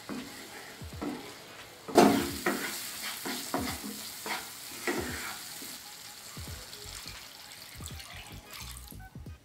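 Thick curry masala frying and sizzling in a nonstick pan while a wooden spatula stirs and scrapes it in repeated strokes. The sizzle gets suddenly louder about two seconds in.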